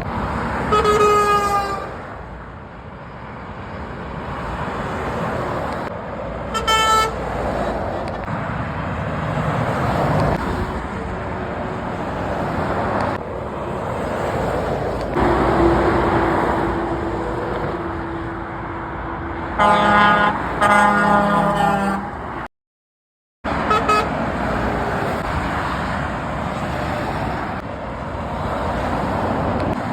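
Motorway traffic passing, with lorries sounding their horns: one blast falling in pitch as it goes by at the start, a short toot a few seconds later, then a run of three blasts and another short toot past the middle. The audio drops out completely for about a second just before the last toot.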